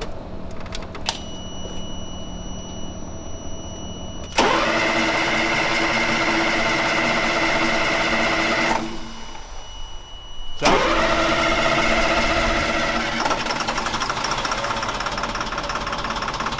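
Military truck's diesel engine being started: two loud attempts of about four seconds each, with a short pause between, each starting suddenly, then the engine settles into a steadier run near the end.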